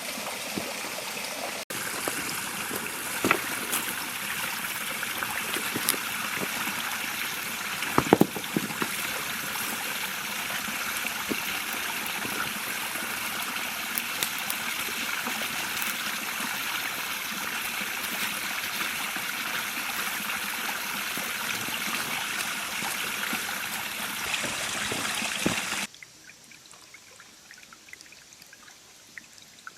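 A river running over stones in a steady babbling rush, with a few sharp splashes or knocks. Near the end it cuts suddenly to a much fainter trickle with light ticks.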